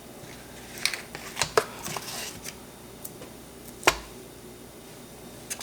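Kitchen handling sounds: a few scattered light clicks and taps, then one sharper knock about four seconds in, as pieces of butter are set on a kitchen scale.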